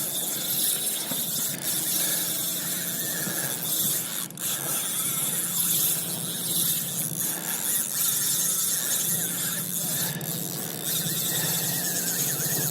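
Fishing reel drag screaming continuously as a hooked bluefin tuna runs and strips line off the spool; the drag is set very light.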